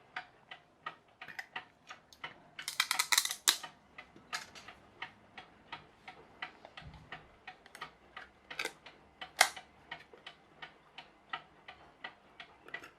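A wind-up mechanical clock ticking steadily, about three ticks a second. Over it, louder clicks of parts being handled: a quick rattle of clicks about three seconds in and two sharp clicks around nine seconds.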